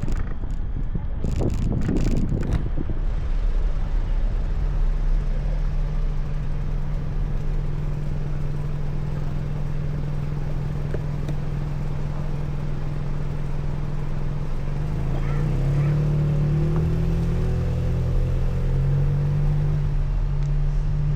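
A motor vehicle's engine running close by: a steady low hum that starts to waver up and down in pitch after the midpoint, over a constant rumble of road and wind noise. A few knocks come at the very start.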